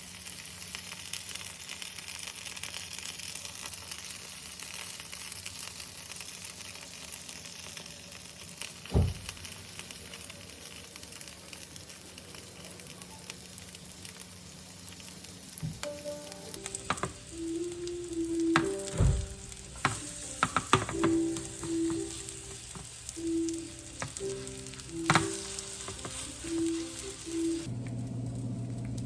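Food frying in oil in a pan, sizzling steadily. In the second half, several sharp clicks and knocks come from a utensil working in the pan.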